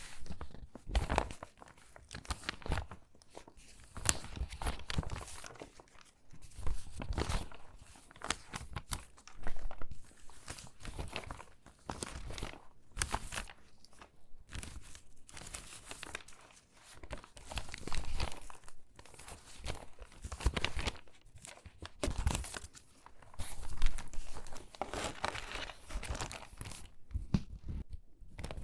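Stiff, water-damaged magazine pages being handled and sorted by hand, crinkling and rustling in uneven bursts every second or two.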